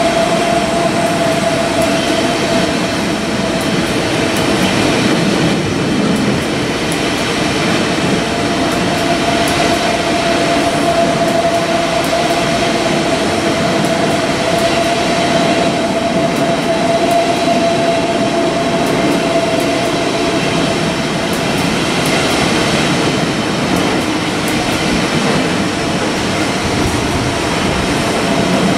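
Electric train passing on the track, a loud continuous rumble of wheels on rail with a steady high whine that drops out briefly about six seconds in.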